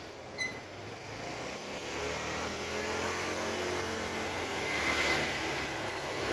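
A motor vehicle's engine passing by on the street, growing louder to a peak about five seconds in.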